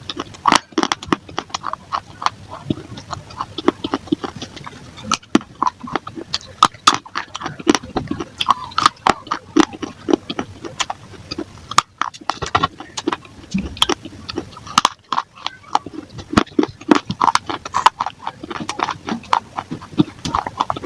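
Close-up biting and chewing of baked clay balls and clay-pot pieces: a dense run of sharp, dry crunches several a second, broken by a few abrupt edit cuts.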